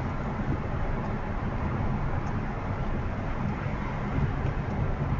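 Steady low rumble of a car driving, with road and tyre noise.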